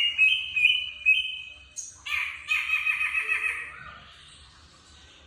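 A Sumatran jegot (greater racket-tailed drongo) calling with rapid, squawky, toy-like notes in two bursts: one at the start and a longer one from about two seconds in, dying away after about four seconds.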